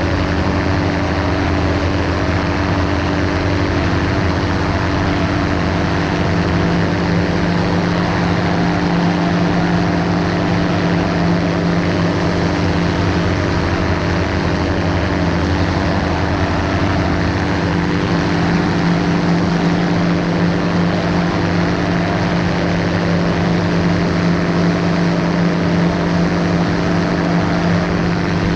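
Ultralight aircraft's engine and propeller running at a steady, unchanging pitch.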